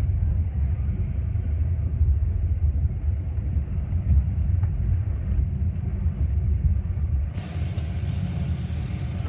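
Metra commuter train running, heard from aboard: a steady low rumble, with a wider hiss joining about seven seconds in.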